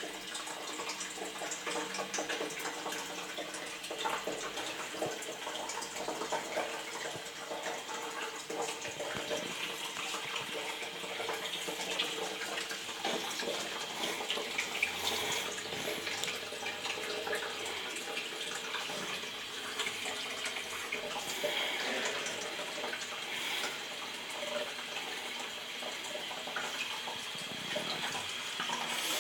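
Water running steadily in a toilet, a continuous tap-like rush.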